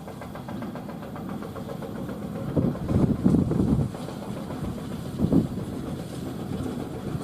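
Truck engine running with a steady fast pulse, swelling louder for about a second and a half from around two and a half seconds in and again briefly past five seconds.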